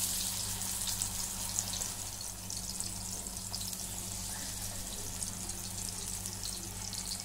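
Masala-coated potato slices sizzling in shallow oil on a hot tawa griddle, a steady hiss with fine crackle as more slices are laid in.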